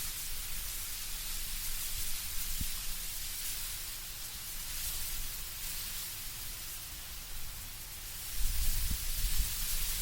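Wind moving through autumn trees, a steady soft hiss of rustling leaves. A low gusty rumble swells in near the end.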